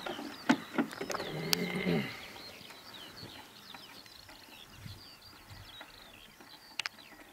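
Small birds calling in the background: many short, quick chirps throughout. A few sharp clicks and knocks in the first two seconds.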